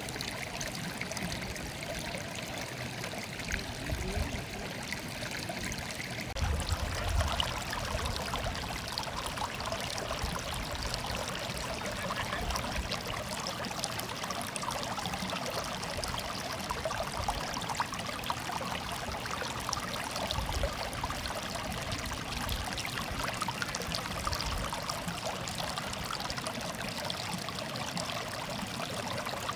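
Flowing water murmuring steadily, like a small stream over stones; the sound grows fuller about six seconds in.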